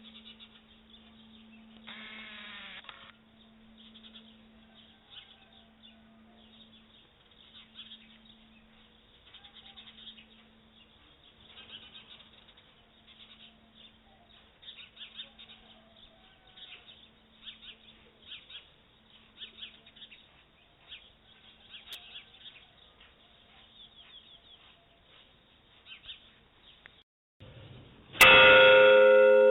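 Small birds chirping quietly, many short calls over a faint low tone that pulses slowly. Near the end a church bell is struck once, loudly, ringing on with several clear tones.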